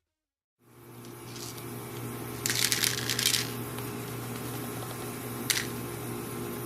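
A moment of dead silence, then a steady low electrical-sounding hum of room noise. A brief rustle comes about two and a half seconds in, and a single short click near the end.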